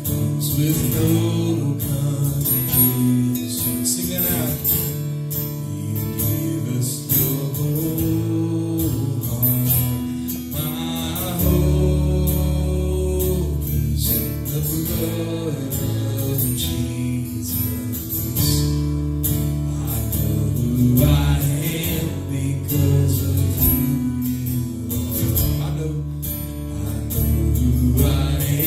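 Live worship band music: acoustic guitar strumming over sustained keys and bass, with a deep bass coming in about eleven seconds in and faint singing.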